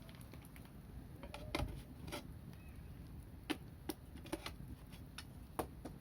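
Wood in a campfire crackling: sharp, irregular pops and snaps over a low rumble.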